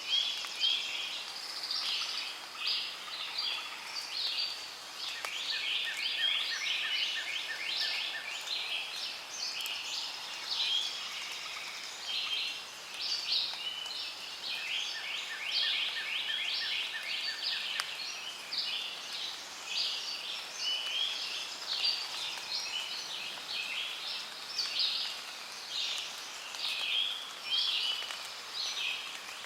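Rainforest ambience: a dense chorus of many overlapping high bird chirps and calls, with a rapid insect-like trill at a lower pitch that starts and stops a few times.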